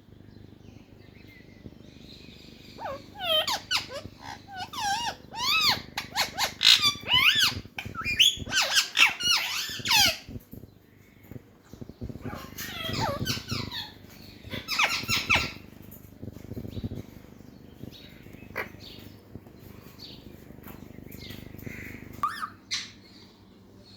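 Pet talking parrot chattering and calling in bursts of high, warbling calls that rise and fall quickly in pitch. A long run of calls comes from about three to ten seconds in, two shorter bursts follow, and there are a few brief calls near the end.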